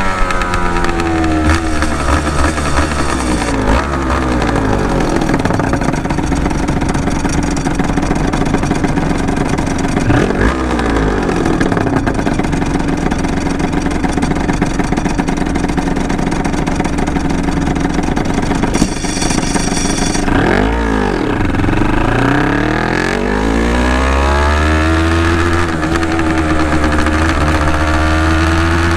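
Honda NSR250's two-stroke V-twin running through Dog Fight Racing expansion chambers under riding load, the revs rising and falling with throttle and gear changes. The revs drop at the start, dip and snap back up about two-thirds of the way through, then climb and hold high near the end.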